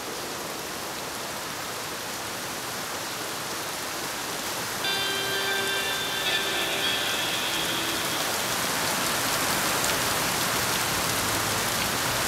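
Heavy rain falling steadily, an even hiss that grows slowly louder and steps up about five seconds in, with a few faint held tones for a couple of seconds after that.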